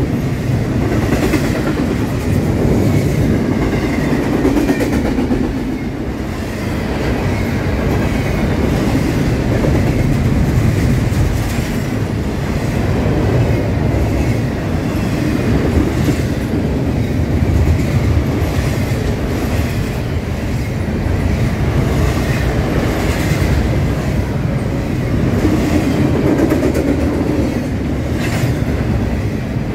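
Double-stack intermodal freight train rolling past close by: a steady rumble from the well cars, with the wheels clacking over rail joints.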